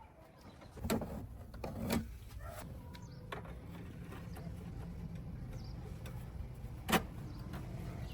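Three sharp knocks, about a second in, about two seconds in and near the end, over a low steady hum that starts a couple of seconds in, with faint bird chirps.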